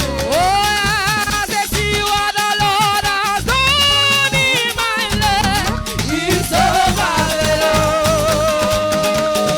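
Live church praise band playing upbeat music over dense percussion and shakers, with a lead line of long notes sung or played with vibrato. One long note is held near the end.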